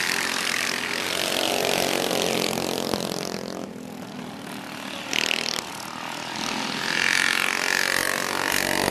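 Minibike engines running at high revs during a race, their pitch wavering up and down as the bikes pass.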